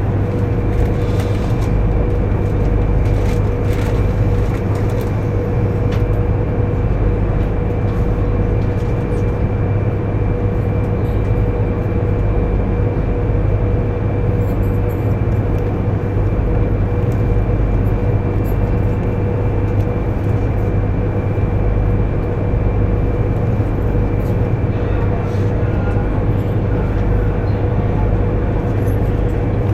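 Cabin noise of a JR East 200 series Shinkansen train running: a steady, loud low rumble with a steady hum, heard from inside the passenger car.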